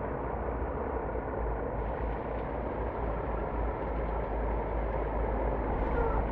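Scania bus engine running steadily, a continuous low rumble.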